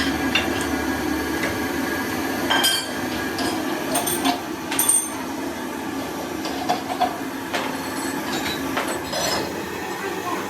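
Metal clinks and taps of hand tools on metal, a few sharp ringing strikes scattered through, over a steady low hum.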